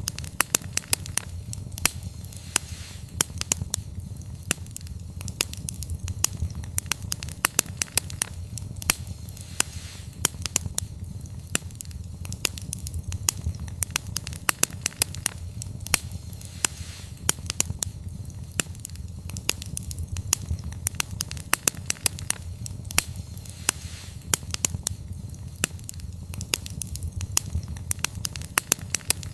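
Wood campfire crackling: a dense, irregular run of sharp pops and snaps, several a second, over a steady low rumble.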